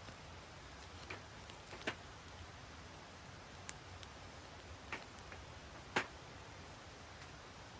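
Wood fire crackling: a handful of sharp, irregular pops over a low steady hiss, the loudest about six seconds in.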